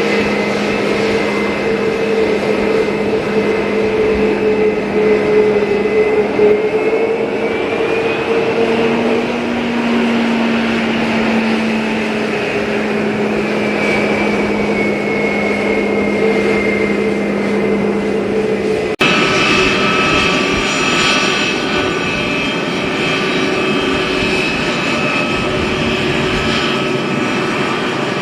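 Jet airliner engines running: a steady whine of several tones over a rushing noise, the tones drifting slightly in pitch. About two-thirds of the way through it changes abruptly to a different set of engine tones.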